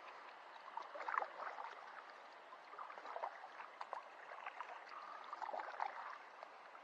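Faint water sloshing and trickling against a kayak, in small irregular splashes.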